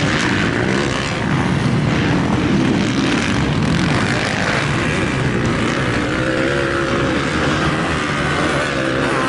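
Dirt bike engine running and revving, its pitch rising and falling.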